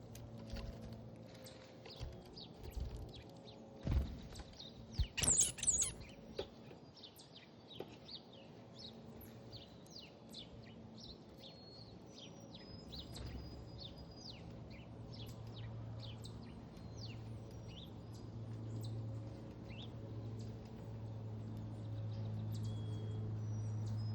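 Small backyard songbirds chirping and calling, with many short high chirps throughout and a louder burst of calls about five seconds in, just after a single knock. A low steady hum grows louder through the second half.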